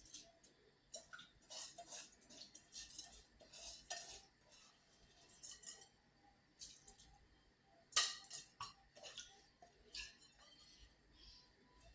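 Containers and packaging being handled and set down while a fridge is restocked: a run of light clinks, clicks and short rustles, with one sharper knock about eight seconds in.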